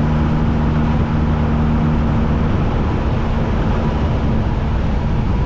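Classic car driving: a steady engine drone under loud road and wind noise, the engine hum easing off about two and a half seconds in.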